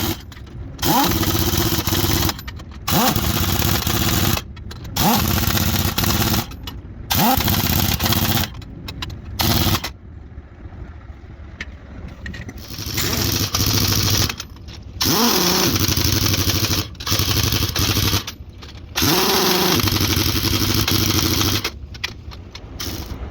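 Pneumatic impact wrench run in about ten short bursts, each spinning up with a rising whine and cutting off sharply, with a quieter pause around the middle.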